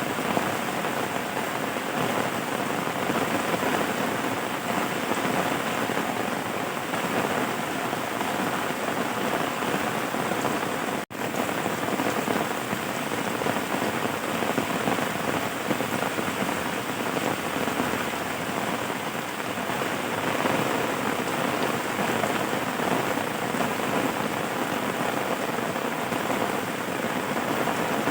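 Steady, dense rainfall pattering without letup, with one momentary drop-out about eleven seconds in.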